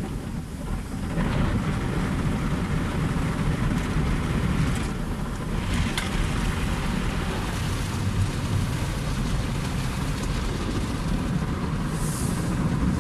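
Automatic car wash machine running: a steady, noisy rush of spraying water over a low mechanical rumble.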